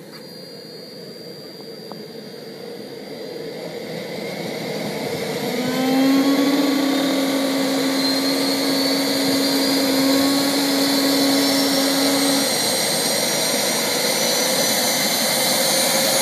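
Radio-controlled model jet's small turbine engine starting up. A whine climbs in pitch and loudness over the first six seconds, then settles into a steady high-pitched running whine, with a lower steady tone from about five to twelve seconds in.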